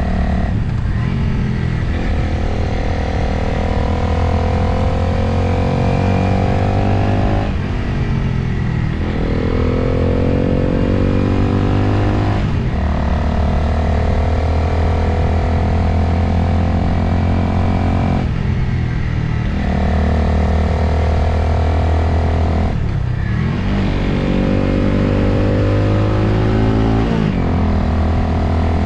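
Motorcycle engine under way with wind noise, its note held steady for a few seconds at a time, then dropping briefly as the throttle closes and picking up again, about six times; once, near the middle, it climbs as the bike accelerates.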